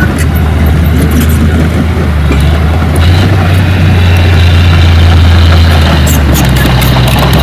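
Heavy diesel engine of earthmoving machinery running steadily, its low note growing stronger about three seconds in, with light metallic clicks and rattles.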